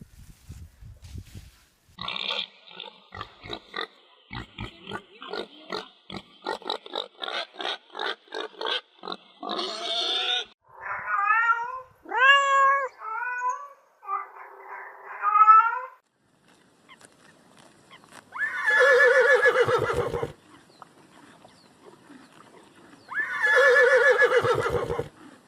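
Pigs grunting in a quick run of short pulses, then several short rising-and-falling squeals, and finally two long, loud squeals a few seconds apart.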